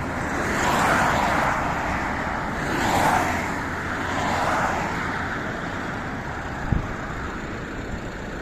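Highway traffic: steady road noise with vehicles passing by in swells about a second in, at three seconds and again a little later, and a brief low thump near the end.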